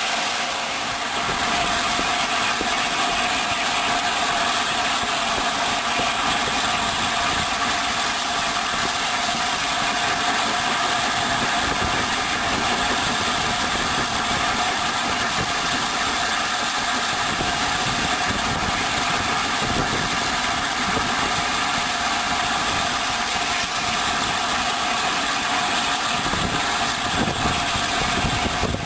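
Steady train noise from a steam-hauled train: a continuous hiss with a few faint steady tones and no clear beats or changes.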